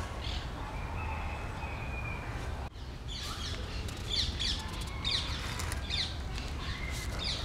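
Small birds chirping, with many short, quick falling notes in irregular runs starting about three seconds in, over a low steady rumble.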